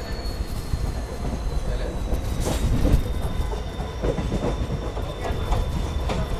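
Passenger train coach running along the track: a steady low rumble with irregular clicks and clatters of the wheels on the rails, and a faint thin high squeal slowly falling in pitch beneath it.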